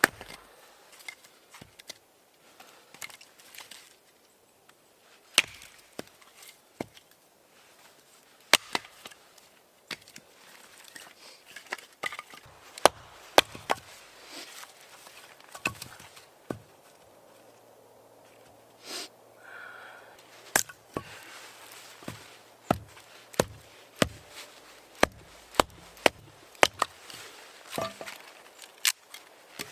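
Wood being chopped: sharp, separate strikes at an irregular pace, coming faster, about two a second, in the last few seconds.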